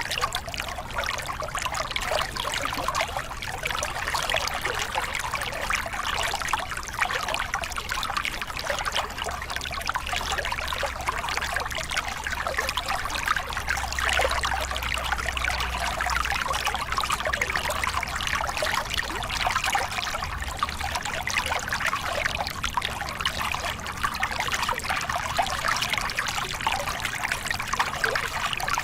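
Small river cascade: water spilling and splashing over rocks in a steady, dense rush with a fine bubbling texture.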